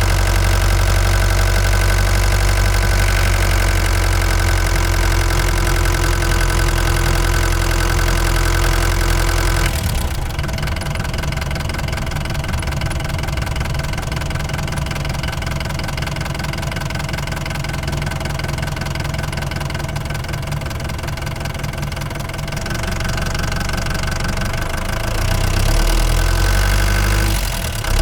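Ford Transit Mk5 van engine running while driving. The engine note drops about ten seconds in, rises again near the end, and breaks briefly just before the end.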